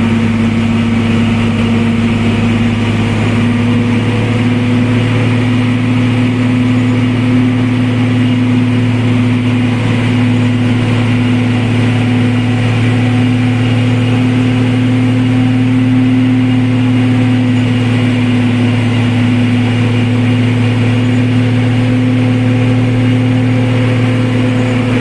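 A vehicle engine running steadily, a loud, constant low drone that holds the same pitch throughout.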